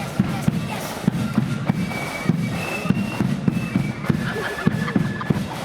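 Marching flute band playing: a fast, steady drum beat of bass drum and snare hits under a high flute melody.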